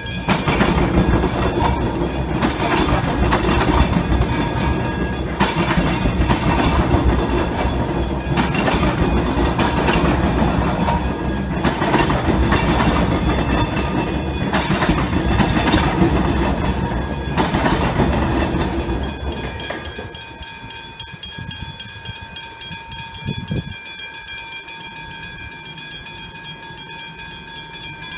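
Alstom X'Trapolis electric multiple unit train passing over a level crossing, its wheels clattering in repeated bursts, while the crossing's Westinghouse hybrid bells ring steadily. The train noise drops away about two-thirds of the way through, leaving the bells ringing on their own.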